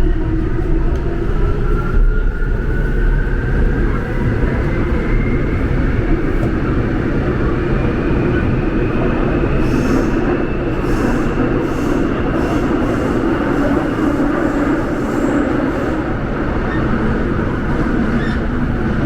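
Seoul Subway Line 5 train running with a heavy rumble, its motor whine rising steadily in pitch as the train gathers speed. A short run of clicks about halfway through.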